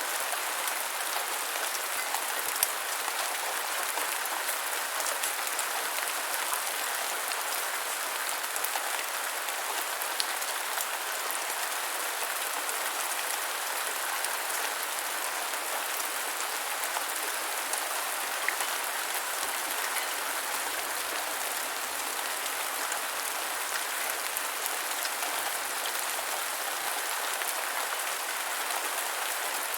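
Steady gentle rainfall, an even hiss of rain with scattered individual drops ticking.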